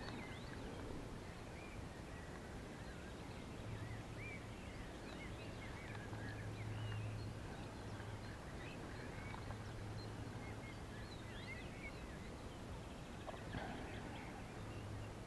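Faint songbirds chirping and singing, many short calls throughout, over a faint low hum that comes and goes.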